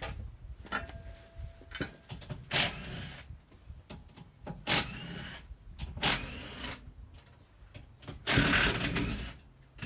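Car wheel-removal work with tools and metal parts being handled: a series of short clanks and scrapes, then a longer, louder mechanical burst lasting over a second near the end.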